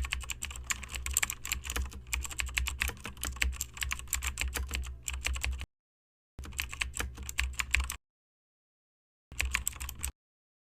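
Rapid, irregular clicking and tapping over a low steady hum, in several short stretches that each stop suddenly.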